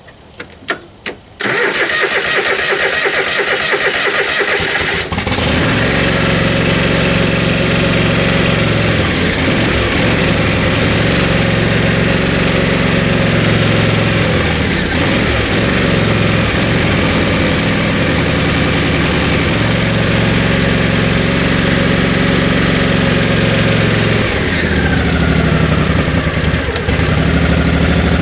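Craftsman riding lawn mower engine on its first start of the year after storage: a few clicks, then about three seconds of cranking before it catches and runs steadily, its speed dipping and picking back up several times.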